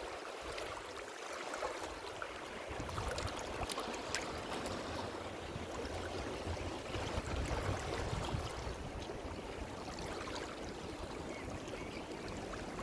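Ocean surf washing on a shore: a steady rushing hiss of breaking and receding water, full of fine fizzing crackle, swelling slightly in the middle.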